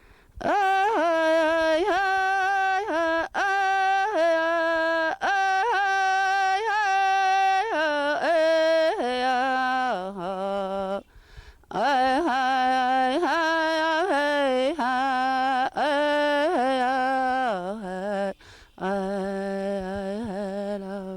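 A man singing a traditional First Nations song from the Bitterroot, solo and unaccompanied, in a high voice with long held notes. Each phrase steps down to lower notes before a short break, twice.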